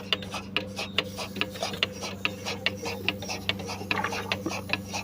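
Milking machine running on a cow: its pulsator clicks several times a second, evenly, over the steady hum of the vacuum pump.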